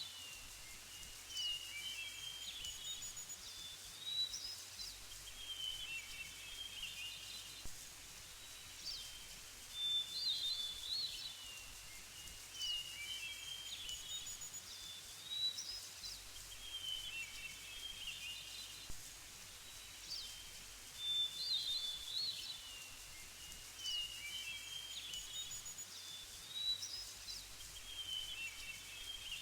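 Small birds chirping and twittering in short bursts over a steady faint hiss, the same run of calls coming round again about every eleven seconds like a looped nature ambience track.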